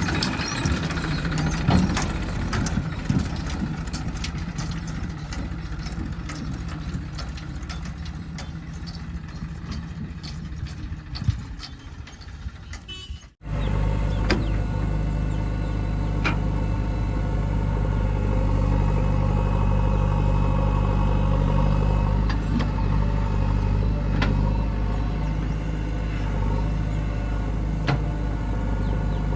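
Heavy diesel engine of earth-moving machinery running, with scattered knocks in the first half. The sound cuts off abruptly about halfway through, then a steady engine run resumes.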